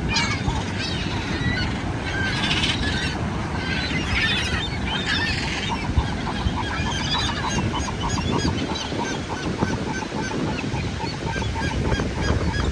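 Several gulls squawking and calling while squabbling over dropped food, with a fast run of short repeated calls in the middle. A steady wash of surf runs underneath.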